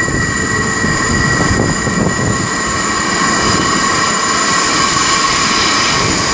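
Merseyrail Class 507 electric train approaching through the tunnel: a low rumble with a steady high-pitched whine, the higher part of the whine growing stronger near the end.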